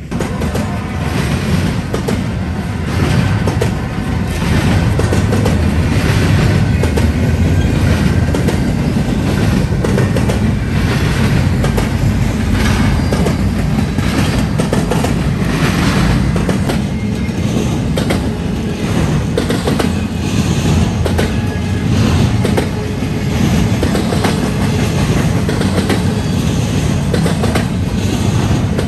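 Freight train rolling past, a steady heavy rumble with the clickety-clack of wheels over the rails.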